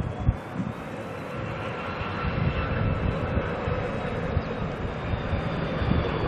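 Airliner's engines rushing and whining as the aircraft passes, growing louder from about a second in and then holding steady, with wind buffeting the microphone.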